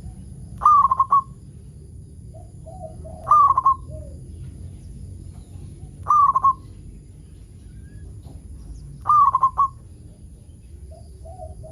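Zebra dove (perkutut) cooing: four short bursts of a few quick notes, about three seconds apart, with softer, lower coos between them, over a steady low hum.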